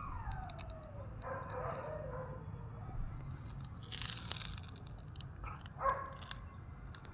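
Outdoor ambience over a low steady rumble: a few pitched animal or bird calls, one gliding down in pitch early on and another near the end, with a short hissing burst about four seconds in and scattered light clicks.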